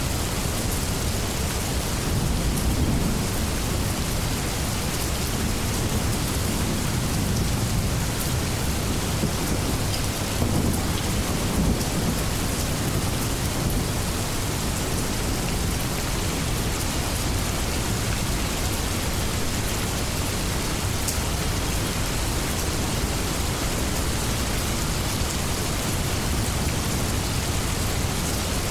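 Steady heavy rain falling, with low rumbles of thunder swelling about two seconds in and again around ten to twelve seconds.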